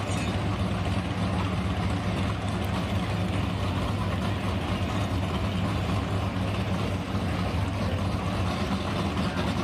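Altered gas class pulling truck's engine running steadily, its low note holding even throughout.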